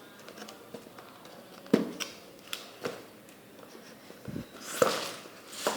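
Handling of a phone's retail box and packaging: a series of irregular taps, clicks and rustles. The two loudest knocks come a little under two seconds in and about five seconds in.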